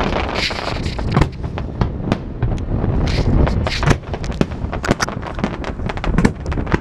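Fireworks display: shells bursting in a steady barrage of bangs and booms, with a quick run of sharp crackling cracks in the second half.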